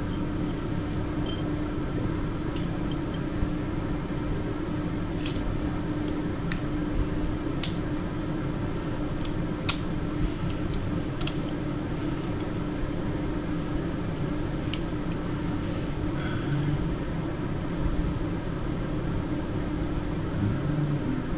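A steady hum with a scattering of short, sharp clicks and taps.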